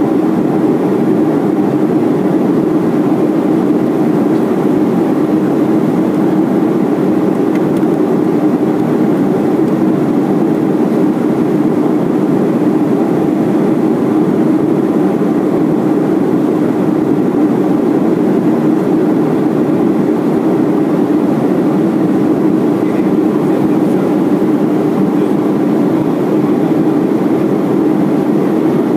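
Steady cabin drone of a Boeing 737-400 on its approach, engine and airflow noise heard from inside the passenger cabin, an even hum that does not change.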